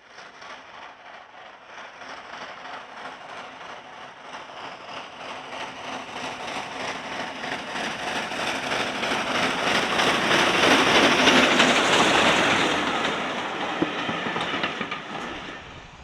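Train approaching and passing, with a rapid rhythmic beat; it builds over about ten seconds, is loudest a little past the middle, then dies away near the end.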